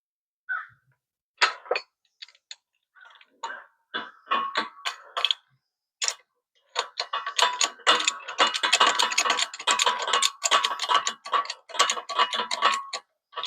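Ratchet wrench clicking in quick runs as it is worked back and forth, tightening a setup that presses a universal-joint cap out of the driveshaft yoke. A few separate sharp clicks come first, then about halfway through a long, fast, steady stretch of clicking.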